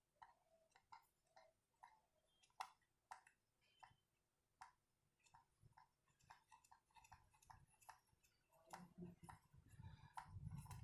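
Faint, irregular clicks and taps of small speedometer parts being handled, coming more thickly in the second half, with a low rumbling handling noise joining near the end.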